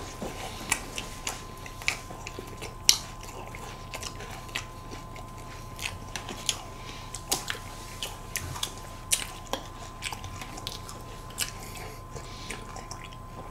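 Close-miked eating sounds: irregular crisp crunches and chewing of a crunchy ice cream dessert, several bites a second at times.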